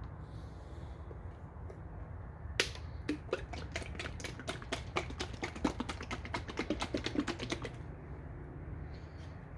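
A quick, irregular run of light clicks and taps lasting about five seconds, starting nearly three seconds in, over a steady low hum.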